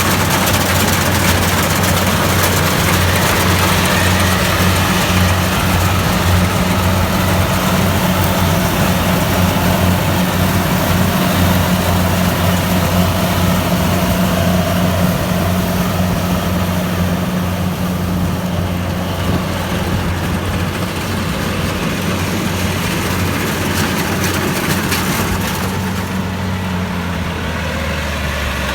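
Kubota DC-70 Plus rice combine harvester running steadily while harvesting, its diesel engine humming evenly with a dense mechanical hiss and rattle over it. The sound eases a little in the second half.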